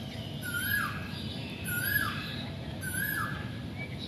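A bird calling over and over, a short note that slides downward, about once a second and four times in all, with a thin high warble at each call, over a steady low background rumble.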